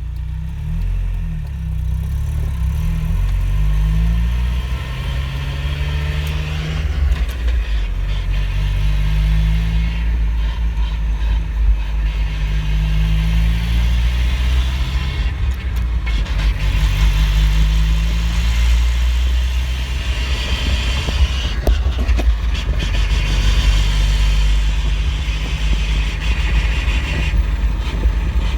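Mazda Miata (NA) four-cylinder engine and drivetrain on the move, the engine note climbing and dropping several times as the car accelerates and shifts, over a steady low road rumble and tyre noise.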